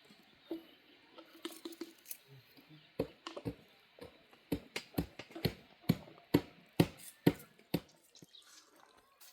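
Water dripping: single drops landing with sharp, irregular taps, a few at first and then one or two a second before thinning out near the end.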